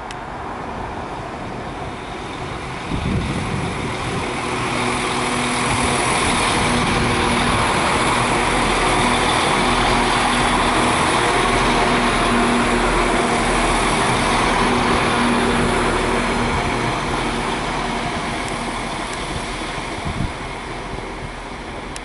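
West Midlands Railway Class 196 diesel multiple unit running past: a steady engine drone and wheel-on-rail noise that build to a peak midway and then fade as it moves away. A sharp thump about three seconds in.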